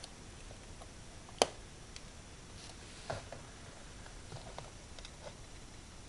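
Faint handling noises of small craft pieces being picked up and set down: scattered light taps and clicks, with one sharp click about a second and a half in.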